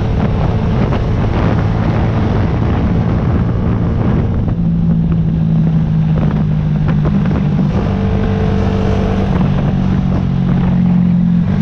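Yamaha YZF-R125's single-cylinder four-stroke engine running at fairly steady revs, with wind noise on the microphone. The engine note steps in pitch a few times, slightly higher about halfway in and again near the end.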